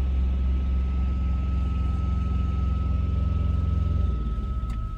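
Engine idling with a steady low rumble and a thin, steady high whine; the rumble falls away about four seconds in.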